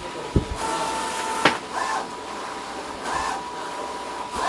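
A CNC paper die-cutting machine running with a steady whine over a hum of air. There are a couple of low thumps early on, a sharp click about a second and a half in, and short swishes that repeat every second or so.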